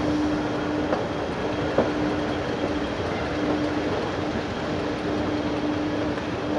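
Steady rumble of a moving vehicle, heard from inside, with a constant low hum and a few faint clicks.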